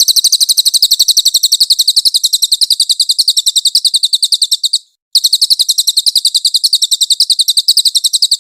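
Cililin bird singing its rapid-fire 'nembak' song: a long, fast run of evenly repeated high notes, about a dozen a second. It breaks off just before the midpoint and resumes at once.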